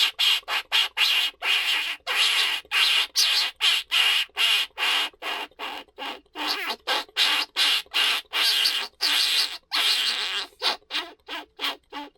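Rat-squeak lure call: a rapid run of squealing squeaks, about two to three a second, some short and some drawn out, imitating a rat's squeaks to draw in game.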